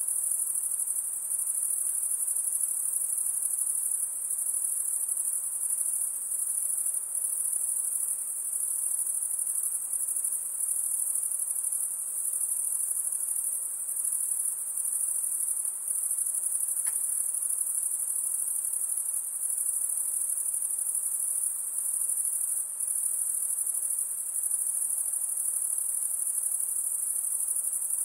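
Chorus of insects singing together in a continuous, very high-pitched shrill drone, steady throughout with only slight flickers in level.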